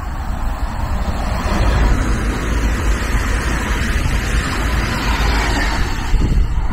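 Z 50000 Francilien electric multiple unit passing close by at speed: a steady rushing noise of wheels and running gear that swells as the train draws level, about a second and a half in.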